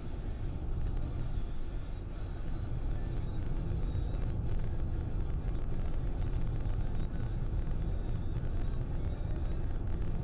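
Car cabin noise at expressway speed in heavy rain: a steady low rumble of tyres and engine on the wet road under a continuous hiss of rain and spray on the car.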